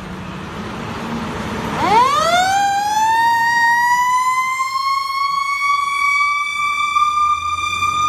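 Fire engine's siren winding up about two seconds in, rising steeply in pitch and then holding a loud, steady high wail that keeps creeping slightly higher. Before the siren starts, the truck's engine and road noise are heard.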